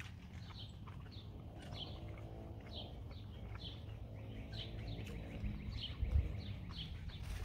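A bird chirping over and over, short high chirps roughly every half second, over a faint low background rumble. A brief low thump about six seconds in.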